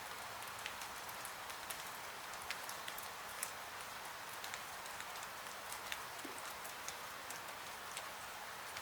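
Steady rain, an even hiss, with many small sharp ticks scattered irregularly throughout.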